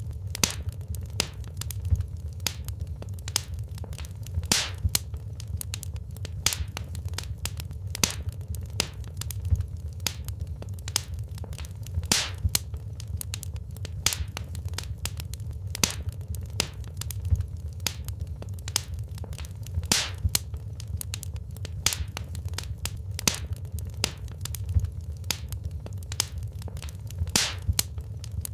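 Wood fire in a fireplace crackling, with frequent irregular sharp pops and snaps over a steady low rumble of flames.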